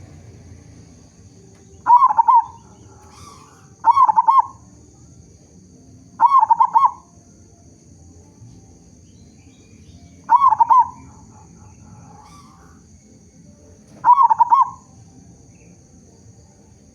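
Local zebra dove (perkutut) cooing: five short, loud, rolling coo phrases spaced a few seconds apart, each about half a second long. This is a big-voiced bird's song, used as a lure to set other zebra doves calling.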